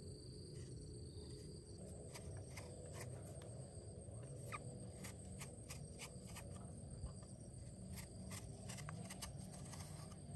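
Faint outdoor ambience: a steady high-pitched insect trill over a low rumble, with irregular sharp clicks and taps starting about two seconds in.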